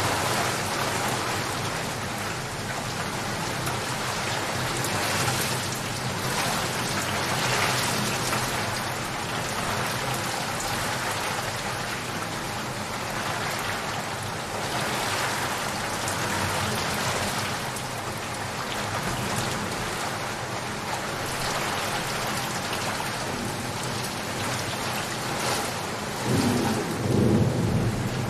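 Steady rain pouring down, a dense hiss of drops. Near the end, a deep rumble of thunder rolls in and is the loudest part.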